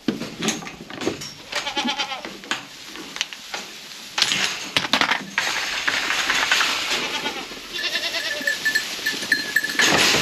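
A herd of goats bleating, with a busy clatter of knocks and rattles that thickens about four seconds in, as they are let out of their shed.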